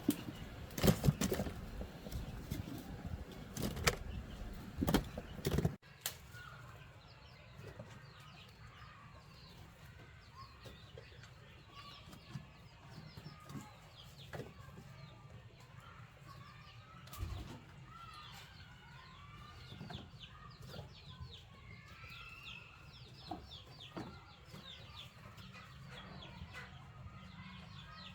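A few loud, sharp knocks in the first six seconds, then chickens clucking and chirping over a low hum.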